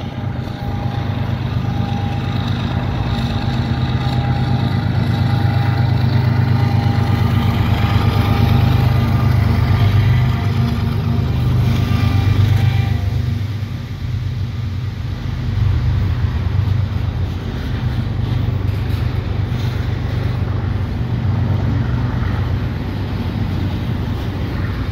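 Two GE ES44DC diesel-electric freight locomotives passing close by, their 12-cylinder engines giving a deep steady drone that builds to its loudest about ten seconds in. About thirteen seconds in it falls away to the rumble of loaded double-stack container well cars rolling over the rails.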